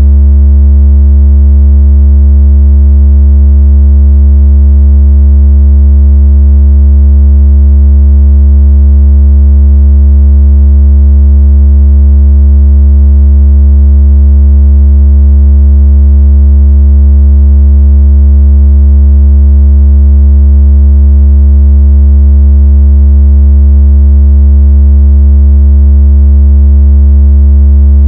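Loud, steady low-pitched electronic tone with faint overtones, unbroken throughout: a synthetic bass vibration tone of the kind played to shake water out of a phone speaker.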